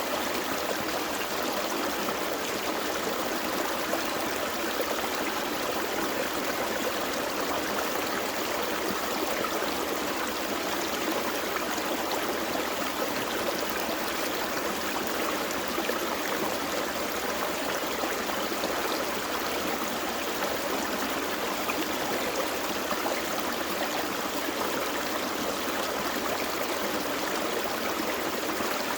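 A gentle forest stream flowing steadily over rocks, an even rushing and trickling of water.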